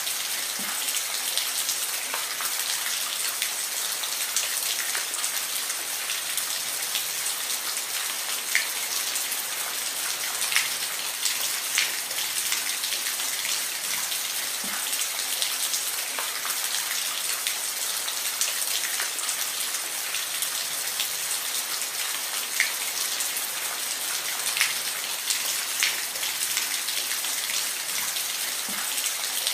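Steady rain with individual drops ticking now and then on a surface, a constant hiss mostly in the high range.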